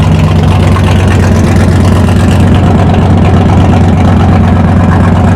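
A car engine idling at a steady speed, loud and close, with an even low exhaust note.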